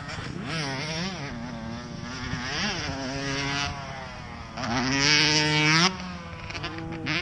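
Dirt bike engine revving up and down several times, its pitch rising and falling; the loudest rev climbs about five seconds in and cuts off suddenly.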